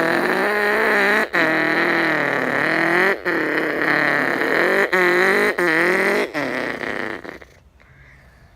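A person imitating a car engine with the mouth, a buzzing vocal drone whose pitch climbs and then drops several times, with short breaks between, like an engine revving up through gear changes. It stops about seven seconds in.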